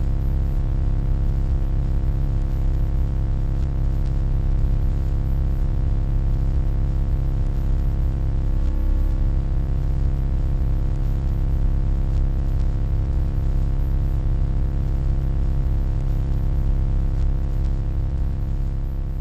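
Steady deep electronic hum with many steady tones layered above it, beginning to fade out at the very end.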